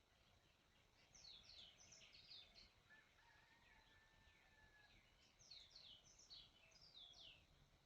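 Faint bird song: two phrases of quick falling chirps, about four seconds apart, over a quiet background hiss.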